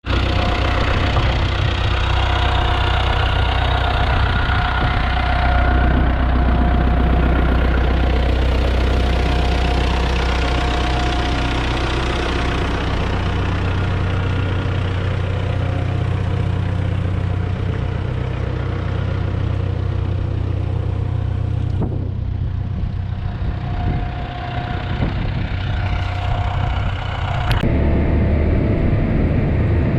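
A motor-vehicle engine running steadily, with a low, even drone; the sound changes abruptly twice, about two-thirds of the way through and again a few seconds later.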